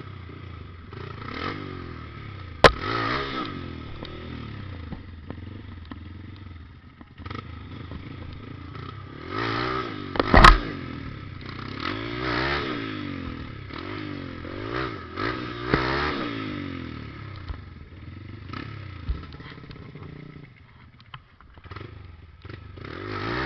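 Trail motorcycle engine revved in repeated short bursts, its pitch rising and falling every second or two. A sharp knock comes about 3 seconds in, and a louder thump about 10 seconds in.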